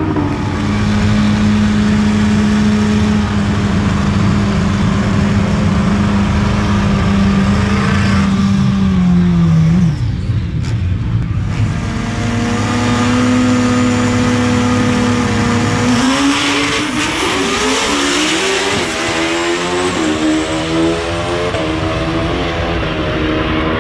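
Turbocharged drag-racing motorcycle engines running hard. One engine note holds steady at high revs for several seconds, then falls away about ten seconds in. After a short lull, another engine comes in with its pitch rising and falling as it revs.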